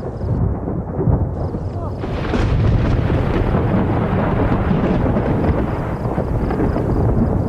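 Thunder rumbling, growing louder and fuller about two seconds in and rolling on without a break.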